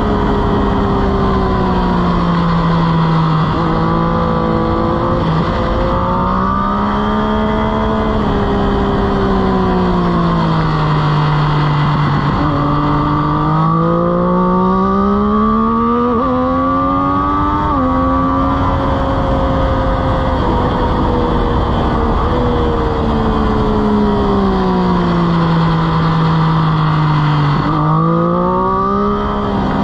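Motorcycle engine heard from a camera mounted on the bike during a track lap. Its pitch falls away into the corners and climbs again on the throttle, three times over, with a few quick gear changes breaking the climbs.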